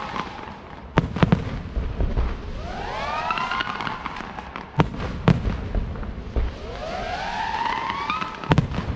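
Aerial fireworks display: clusters of whistles, several rising together, come three times, with pairs of sharp bangs in between, over a steady crackling rumble.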